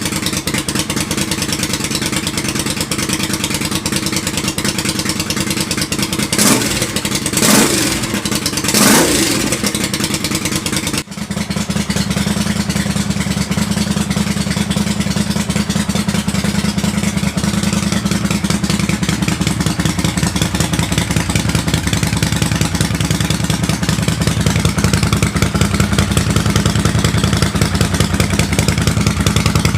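Liquid-cooled twin-cylinder motorcycle engine running on its first start after a rebuild, blipped three times about a third of the way in, then settling into a steady idle.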